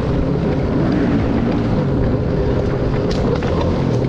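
Dirt bike engine running on a trail ride, its pitch rising and falling as the throttle changes, with wind buffeting the microphone.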